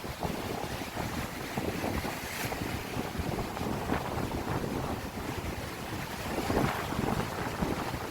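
Sea waves washing against the rocky shore, under wind buffeting the microphone in gusts.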